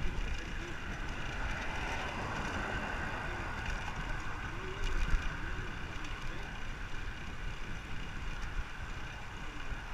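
Wind buffeting the microphone on a moving bicycle, with steady road and traffic noise. A faint whine swells through the middle, and there is a short bump about five seconds in.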